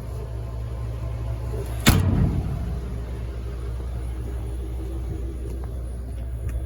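A single sharp metal bang about two seconds in, a utility toolbox door being slammed shut, over a steady low rumble.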